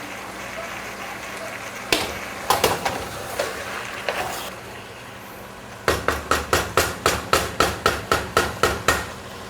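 Sharp knocks in a kitchen: a few scattered ones, then about a second later a steady run of about a dozen, roughly four a second, that stops near the end.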